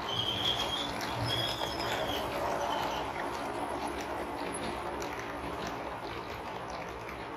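Steady patter of rain, with a few short, high chirps in the first two seconds or so.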